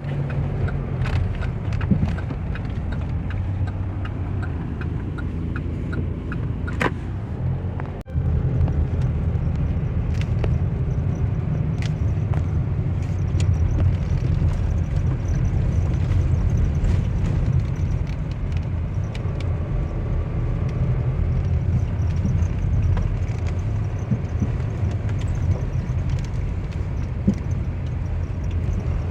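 A motor vehicle running, with a steady low rumble throughout. A run of faint, evenly spaced ticks comes in the first few seconds, and the sound drops out briefly about eight seconds in.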